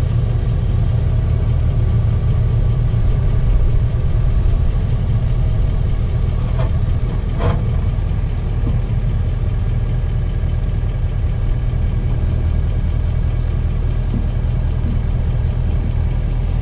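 Diesel truck engine idling steadily, just after it has finished a particulate-filter regeneration. Two short clicks come about six and a half and seven and a half seconds in.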